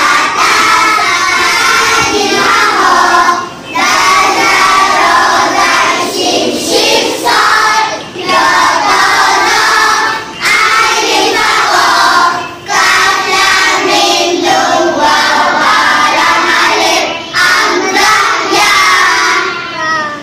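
A class of young children singing together in unison, in phrases of a few seconds with short pauses between them.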